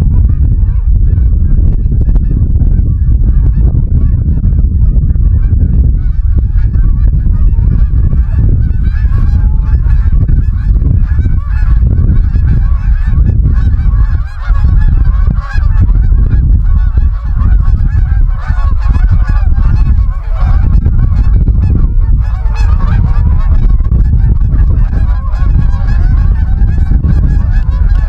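A flock of geese honking continuously, many calls overlapping, busier from about a third of the way in, over a constant loud low rumble.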